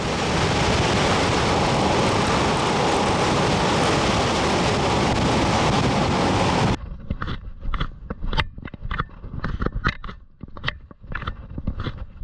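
Loud wind buffeting the microphone for the first half, then an abrupt cut to footsteps crunching along a trail, about two steps a second.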